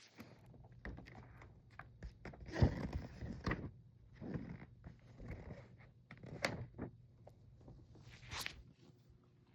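Light handling noises: scattered knocks and clicks with a few short rustles, the loudest rustle and thunk about two and a half seconds in, as packaging and a poster are handled.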